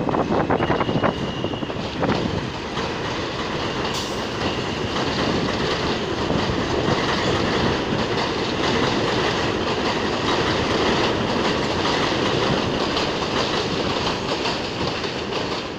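R160A subway train running out of the station, its wheels clattering over the rail joints with a steady rumble. A short high wheel squeal comes about a second in.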